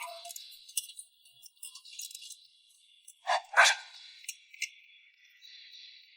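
A dog barking twice in quick succession about three and a half seconds in, over a faint steady high hiss.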